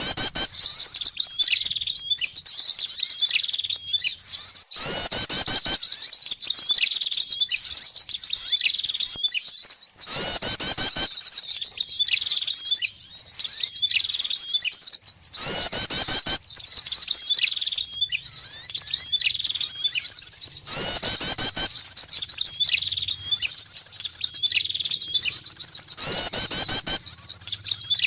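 Bird-lure recording mixing calls of prinias and other small songbirds: dense, rapid, high-pitched chirping that never stops, with a harsher, fuller call cutting in about every five seconds.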